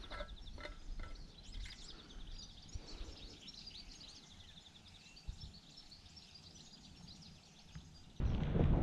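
Small birds chirping and singing over a low outdoor rumble, with a run of faint rapid ticks in the first few seconds. About eight seconds in, loud wind noise on the microphone starts suddenly.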